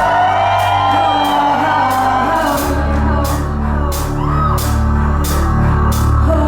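Live band playing a synth-pop song with a female lead vocal singing over a steady drum beat and sustained bass notes. The bass comes in heavier about two and a half seconds in.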